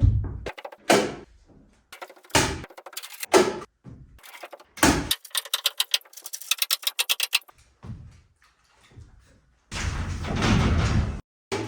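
Staple gun fastening rafter baffles: four single sharp snaps a second or so apart, then a quick rattle of clicks. Near the end comes a noisy stretch of about a second and a half.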